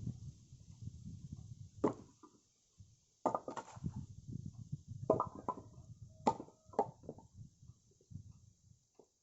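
Firewood being handled: about seven sharp, irregular wooden knocks, a few with a short ringing tone, after a low rumble in the first couple of seconds.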